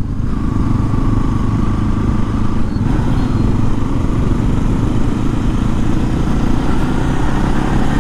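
Motorcycle engine running steadily with a constant low rumble, likely the Bajaj Pulsar NS200's single-cylinder engine.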